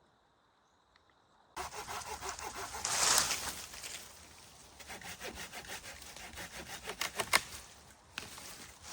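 Hand saw cutting through wood. It starts suddenly about a second and a half in and breaks off briefly near the end.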